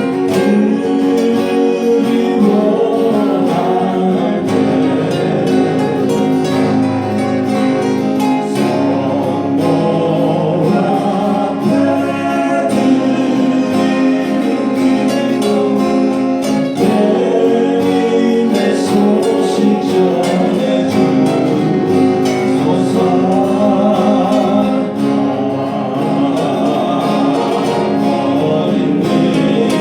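A song performed on acoustic guitars with singing over it.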